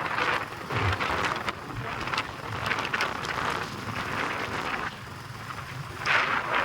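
Wind rushing over the microphone of a moving motorcycle, swelling and easing in gusts, with road and engine rumble underneath.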